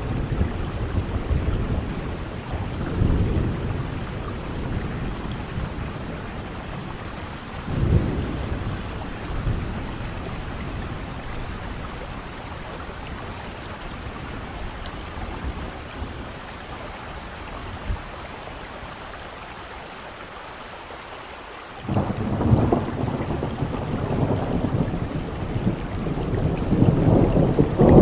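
Steady rain with rolling thunder: low rumbles swell a few times early on, die down to just the rain, then a loud thunder roll breaks in sharply about 22 seconds in and grows louder to the end.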